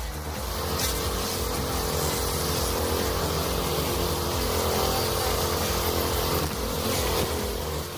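A homemade stump grinder's engine running steadily, getting louder about half a second in.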